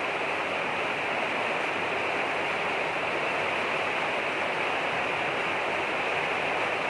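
Steady heavy rain, a constant even hiss with no separate drops or gaps.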